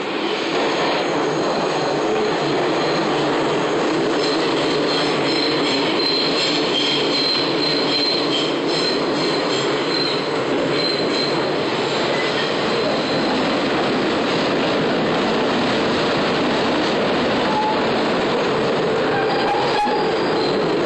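New York City subway train running on the track, with the steady, loud noise of wheels on rail. A high-pitched wheel squeal comes through for several seconds in the middle.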